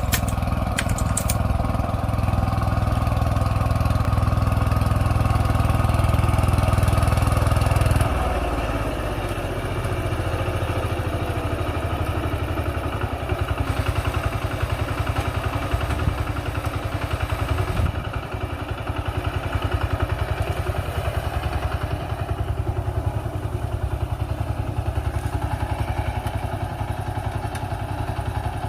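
Mini tractor's diesel engine running steadily under work with a rotavator. About eight seconds in, the engine note drops and becomes a little quieter, then runs on evenly.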